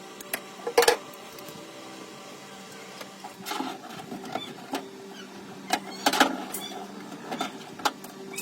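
Scattered clicks and knocks of workshop hand work, over a steady hum.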